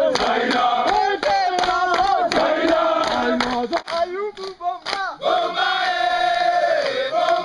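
A group of porters singing and chanting together, with sharp hand claps scattered through; the singing thins out briefly about halfway, then comes back strongly.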